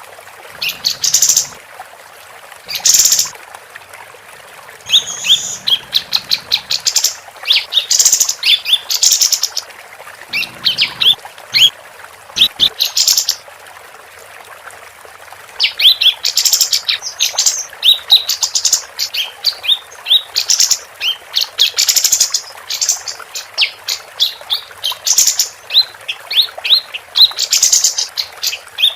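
Female kapas tembak, a bulbul, singing in bursts of rapid, high chirping notes. There are short pauses between phrases, then a long unbroken run of quick chirps through the second half.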